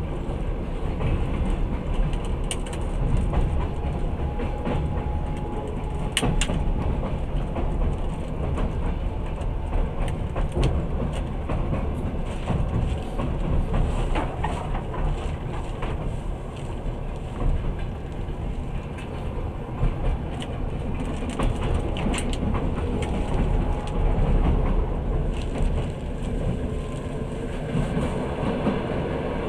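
Running noise of a moving passenger train heard from inside the carriage: a steady low rumble of the wheels on the track, with scattered clicks of the wheels over rail joints.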